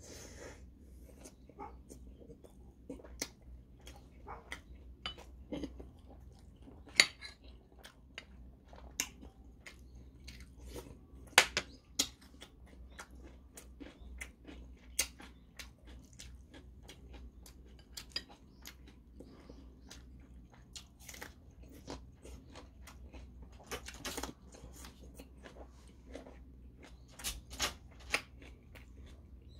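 A person chewing and eating kimchi stew with rice, with a steady run of irregular wet mouth clicks and smacks and a few sharper, louder clicks.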